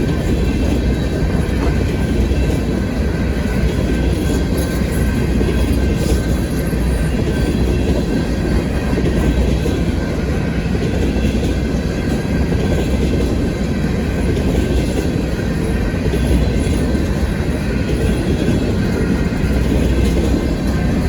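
Freight train cars rolling past in a steady, continuous rumble of steel wheels on rail.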